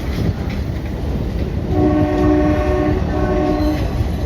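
Train horn sounding two blasts, a longer one then a shorter one, each a steady chord of several notes, over the continuous rumble of the Indian Railways train running on the track.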